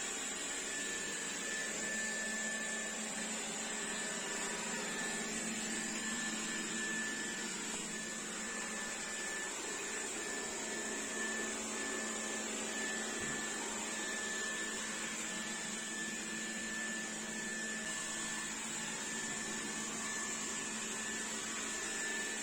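Xiaomi Dreame D9 Max robot vacuum running steadily: an even rush of suction fan noise with a thin high whine and a low hum.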